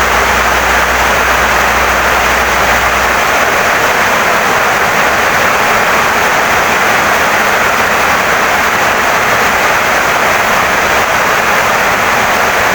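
Heavy rain pouring steadily on a wooden house, an even unbroken hiss. A low steady hum sits under it for the first three seconds or so, then stops.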